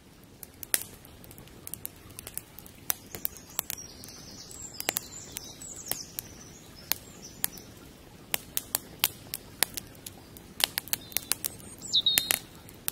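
Irregular sharp clicks and snaps over a faint steady outdoor hiss, with birds chirping briefly a few times.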